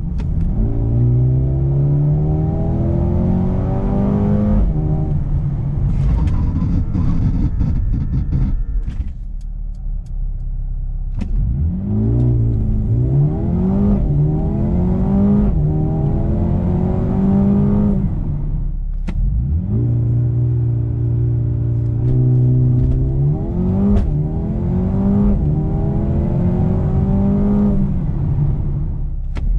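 Mercedes-AMG A35's 2.0-litre turbocharged four-cylinder accelerating hard, its note rising steadily and then dropping back at each quick upshift of the seven-speed dual-clutch gearbox. The pull repeats several times, with a brief steady cruise in between and a few short sharp cracks around the shifts.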